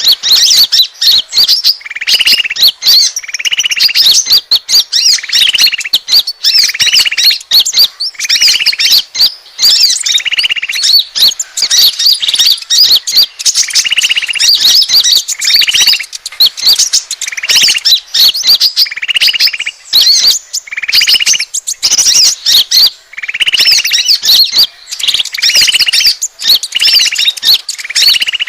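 Konin bird lure call: a dense run of rapid high chirps, with a lower buzzy note repeating about every second, pausing briefly now and then. It is played loud to attract the birds.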